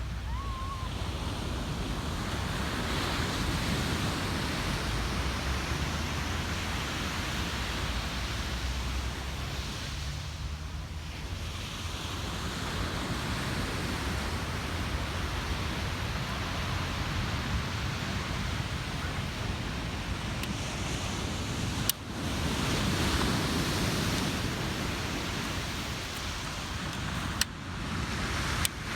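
Ocean surf washing onto a beach: a continuous rush of breaking waves that swells and eases, rising a few seconds in and again after the first click. Two sharp clicks, each followed by a sudden drop in level, come about 22 seconds in and near the end.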